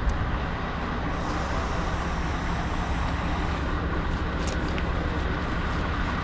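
Benelli TRK 702's parallel-twin engine idling steadily.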